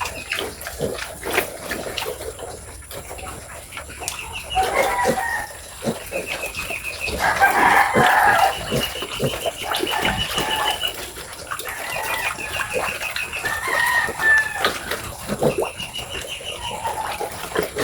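Chickens clucking and a rooster crowing, with the loudest call about halfway through, over many short clicks and knocks from the feeding pen.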